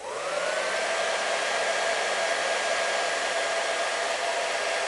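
Hair dryer switched on to heat vinyl wrap: its motor spins up over the first half-second, then holds a steady whir with rushing air.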